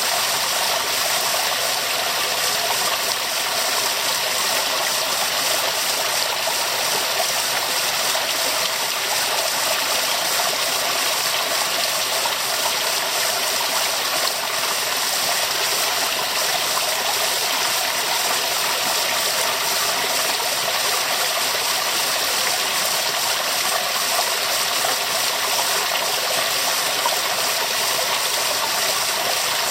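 Waterfall: water falling and rushing in a steady, even hiss, with little low rumble.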